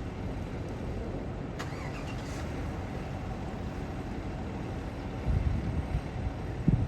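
Motor vehicle engines and road traffic running steadily, with a brief faint high squeal about a second and a half in and the low rumble swelling louder about five seconds in.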